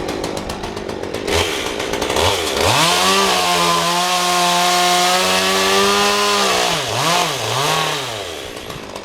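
Two-stroke chainsaw ticking over, then revved to full speed and held there for about three and a half seconds. It drops back, is blipped twice and settles to idle near the end.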